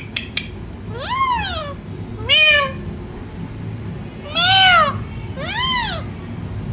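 Pet parrot imitating a cat's meow: four arched, meow-like calls that rise and fall in pitch, spaced about a second apart.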